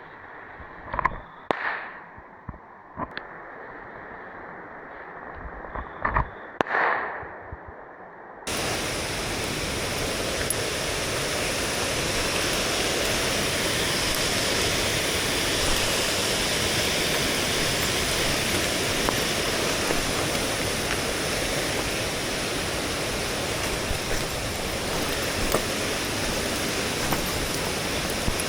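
Steady rushing of a mountain stream or small waterfall, cutting in suddenly about eight seconds in. Before that the sound is quieter and muffled, with a few sharp knocks.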